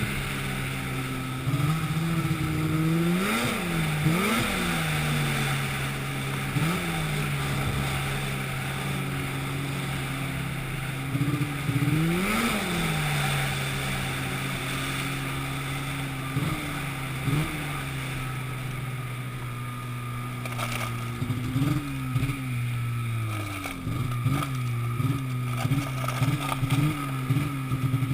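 An engine running steadily, revved up and dropping back several times, with a quick run of short revs near the end.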